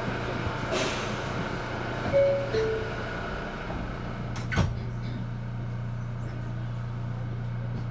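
Inside an R179 subway car: the two-note falling door chime sounds about two seconds in as the doors close, then a single thud a couple of seconds later, over the car's steady low hum.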